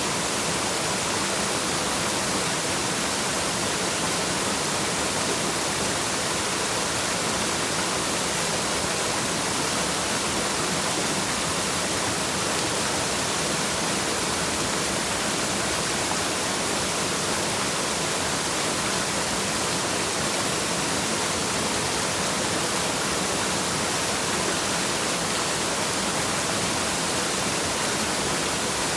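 Waterfall: a steady, unbroken rush of falling water, bright and hissy.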